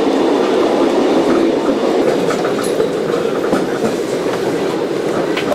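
Double-decker passenger train running, heard from on board: a steady loud rumble of the train in motion with faint scattered clicks of the wheels on the rails.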